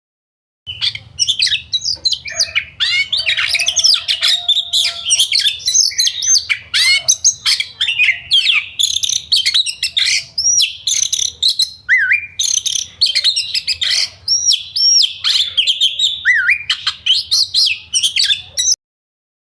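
Recorded song of yellow-vented bulbuls (trucukan): dense, chattering runs of quick rising and falling whistled notes, several birds overlapping, over a faint low hum. The recording starts suddenly about a second in and cuts off sharply near the end.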